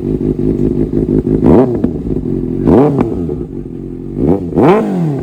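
Kawasaki ZX-6R inline-four sport bike with a freshly fitted aftermarket exhaust, idling and blipped four times, the revs rising and falling quickly each time, the last two close together near the end.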